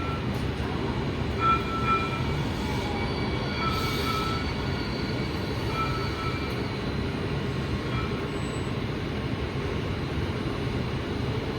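VTA light rail train arriving on the neighbouring track: a steady low rumble, with short high wheel squeals about one and a half, four and six seconds in.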